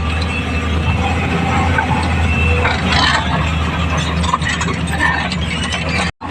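Hydraulic excavator's diesel engine running steadily, with scattered metallic clanks and squeaks from the machine working. The sound cuts out briefly near the end.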